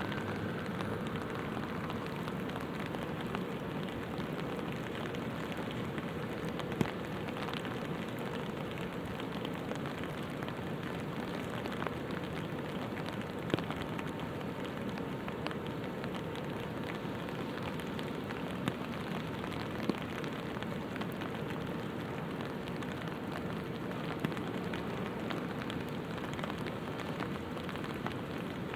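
Light rain falling steadily and pattering on an umbrella, with a handful of louder single drop hits standing out from the patter.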